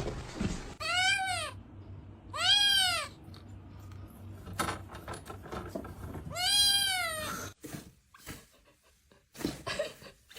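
A cat meowing three times, each meow rising and then falling in pitch, the third one longer. There are a few knocks and clicks near the end.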